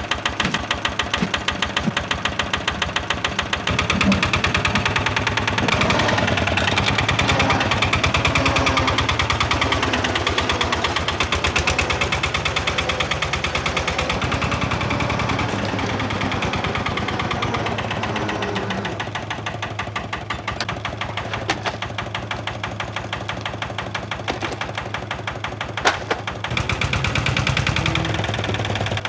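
Pressure washer running, its pump pulsing rapidly and evenly, with the hiss of the water jet striking tyres, strongest for a stretch in the first half.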